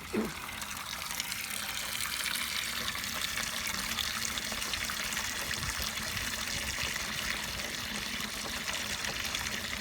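Water running steadily from a water-tank tap into a bucket, filling it.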